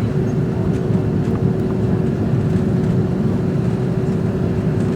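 Airbus A330-200 jet engines and airflow heard from inside the cabin: a steady low rumble with a constant hum on top.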